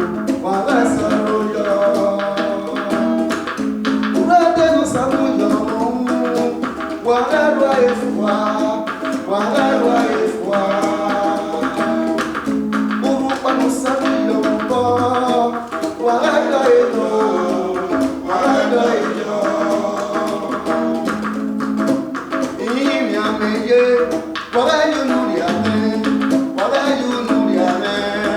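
Edo highlife band music: melodic instrumental lines over a steady low bass note and brisk percussion.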